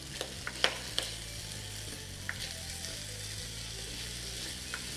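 Food sizzling as it fries in a pan, stirred with a spatula, with a few sharp clicks of the utensil against the pan, most of them in the first second.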